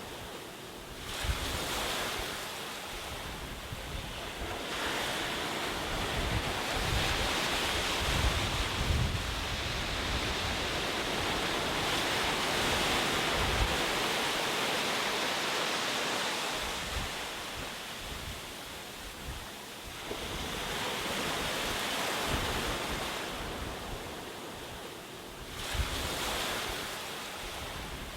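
Ocean waves breaking on a shore in slow surges that swell and ebb every several seconds, with wind rumbling on the microphone.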